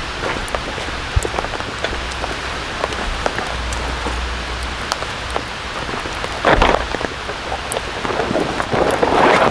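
Steady rain, with individual drops ticking close by. Two brief, louder bursts of noise come about six and a half and nine seconds in.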